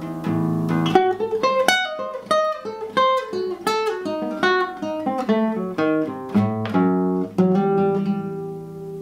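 Acoustic guitar fingerpicked: a melody of single plucked notes, about two a second, stepping mostly downward over lower notes left ringing, then a last chord ringing out near the end.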